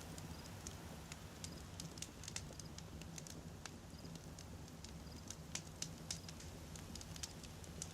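Wood fire crackling, with frequent irregular sharp pops and snaps over a low, steady rumble.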